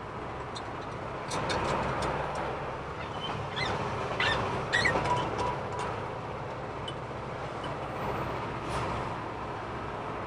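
Semi-truck cab noise while driving: steady engine and road rumble, with scattered clicks and rattles and a few short high squeaks a few seconds in.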